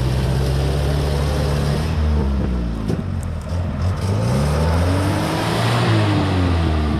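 Off-road 4x4 engine running under load, with its revs rising in the middle and dropping back near the end.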